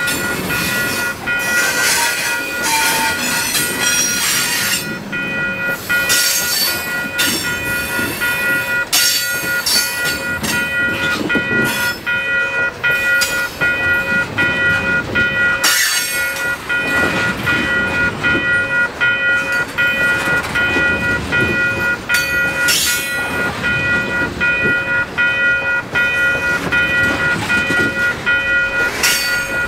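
Freight train of tank cars rolling past close by, a steady rumble of wheels on rail with clacks as wheel sets cross rail joints. A steady high-pitched squeal of wheel flanges grinding on the curve holds throughout.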